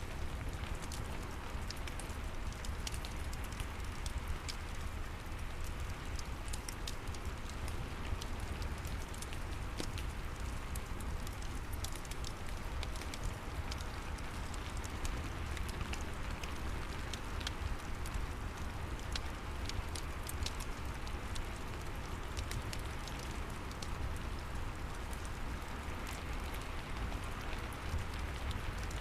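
Steady rain falling, mixed with a fireplace crackling, its pops and snaps scattered irregularly throughout, over a low rumble.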